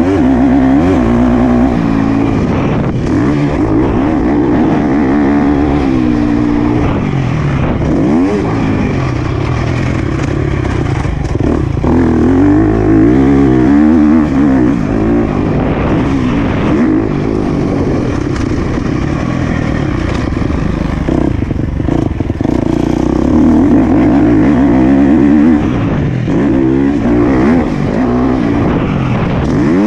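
Motocross bike engine ridden hard around a dirt track, the revs climbing and dropping again and again as the throttle is opened and closed through the gears.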